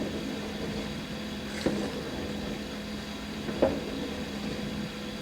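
Dishwasher running a wash cycle: a steady motor hum under a wash of water noise, with a short swish or knock coming twice, about two seconds apart.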